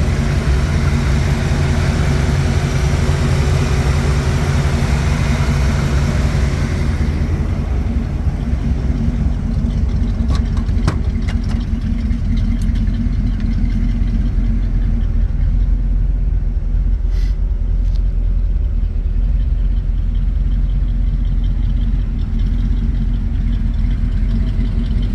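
Engine of a 1951 Dodge truck running steadily at idle. About seven seconds in, the higher hiss drops away while the low engine note carries on.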